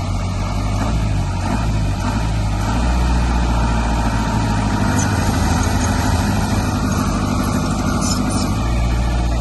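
Heavy diesel engine of a construction machine running steadily with a low drone.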